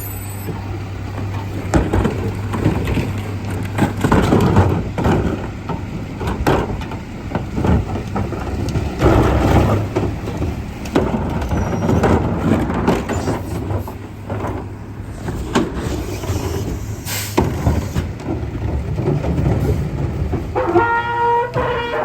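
Garbage truck working a collection stop: the engine runs with a steady low hum while trash and cans bang and clatter in repeated knocks. About twenty seconds in, a pitched sound with stepped tones rises briefly over the noise.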